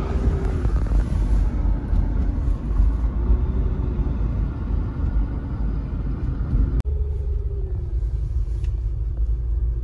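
Road noise inside a moving car: a steady low rumble with a faint hum that drifts slightly in pitch, broken by a brief cut about seven seconds in.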